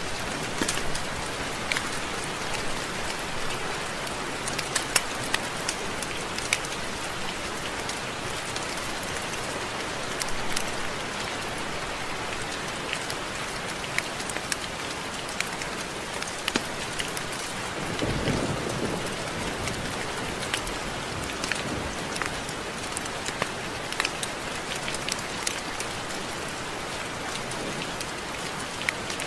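Steady rain with scattered louder drops ticking on a surface. A brief low rumble comes about two-thirds of the way through.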